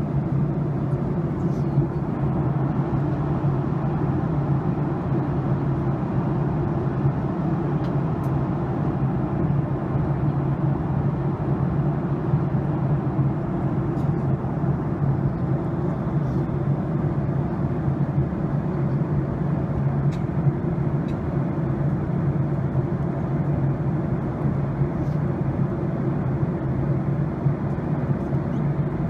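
Steady cabin noise inside a jet airliner during its descent: a constant low hum of engines and airflow, with a few faint ticks.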